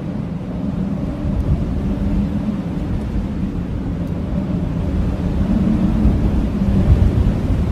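Blizzard wind blowing and howling, a low continuous rush with a faint wavering moan that swells a little near the end.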